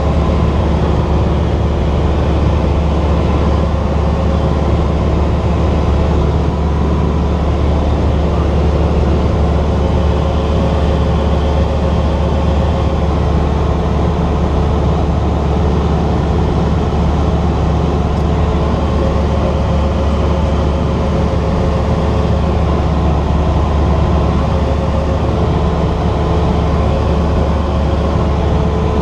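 Cessna 172's piston engine and propeller droning steadily, with no change in power.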